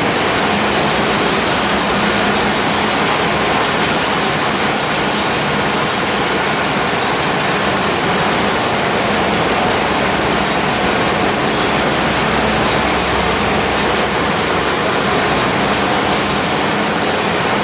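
Loud, steady din of a bulk carrier's engine-room machinery running, with a fast, even clatter over a constant roar.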